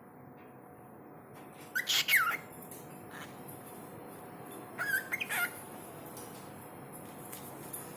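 A pet talking bird giving two short bursts of squawking, whistle-like calls with quick sliding pitch, the louder one about two seconds in and the other about five seconds in.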